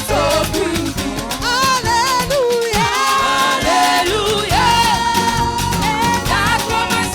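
Live gospel praise music: a choir and band, with sung vocal lines over a steady beat and bass. One long note is held for about two seconds in the middle.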